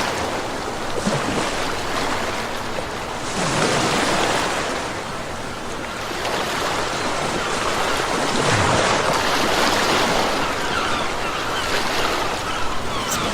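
Ocean waves breaking and washing on a shore: a continuous rush of surf that swells and eases every few seconds.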